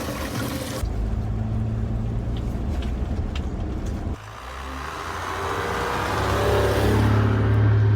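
Toyota Land Cruiser 75's engine running, then revving up steadily over the last three seconds before cutting off abruptly.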